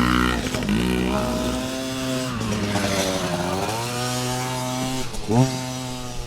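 Small 50cc youth dirt bike engine running hard, its pitch rising and falling as the throttle is worked, with a sharp rev climb about five seconds in.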